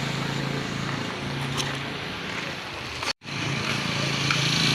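Motorbike engine running steadily, with noise over it; the sound cuts out for an instant about three seconds in and returns louder.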